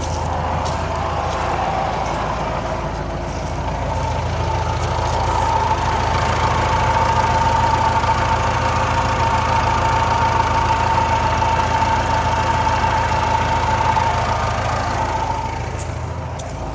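Kubota M9960D tractor's diesel engine running steadily with a whine from the transmission case while the shuttle is in forward and the range is in park. The whine grows louder about a third of the way in and fades near the end.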